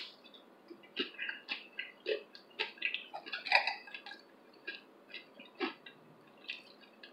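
Close-up chewing of a crisp tortilla chip with guacamole: a string of irregular crunches and wet mouth clicks.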